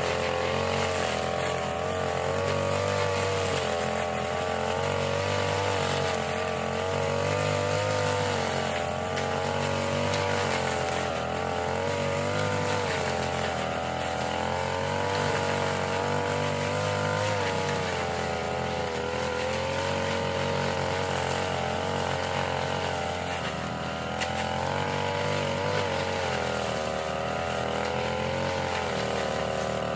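Small petrol engine of a grass-cutting machine running steadily, its pitch rising and falling a little as it works.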